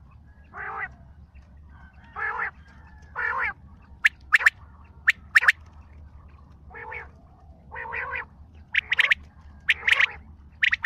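Bird calls repeated in a series: three harsh, nasal notes about a second apart, then sharp, high-pitched calls in quick pairs, alternating with more of the harsher notes and coming faster toward the end.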